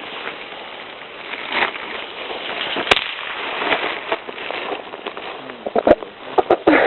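A bag being handled, crinkling and rustling steadily, with a sharp click about three seconds in. Short voice sounds come near the end.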